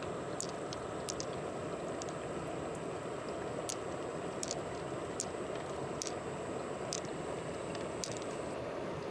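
Steady rush of flowing water, with small sharp clicks about once a second.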